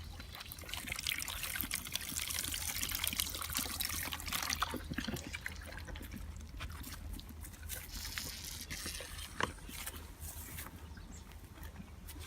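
Liquid trickling and splashing, with scattered small clicks and knocks, one sharper knock near the end.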